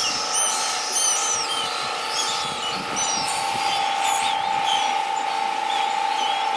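Birds chirping at the nest: many short, high chirps and squeaks, several overlapping. Underneath runs a steady machine hum from the neighbours, with wind rumbling on the microphone for most of the first five seconds.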